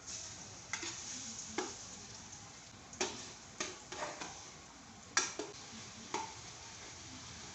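Food sizzling in a frying pan, with about seven sharp clinks of a utensil against the pan at irregular moments.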